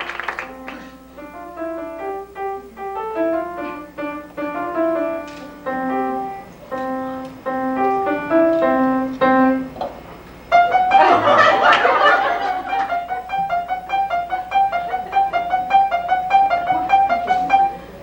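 Piano playing a slow melody of single notes. About ten seconds in it gets louder, with a fast run of repeated high notes over a rush of noise.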